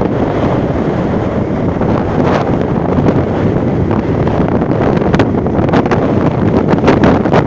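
Strong gusty wind buffeting the microphone: a loud low rumble that rises and falls with the gusts.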